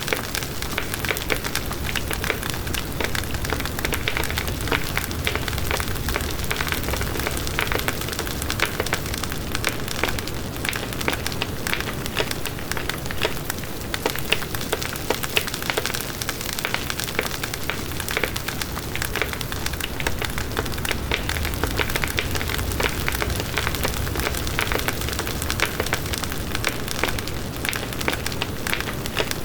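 Campfire burning, wood crackling and popping in a dense, continuous stream of small snaps over a steady hiss.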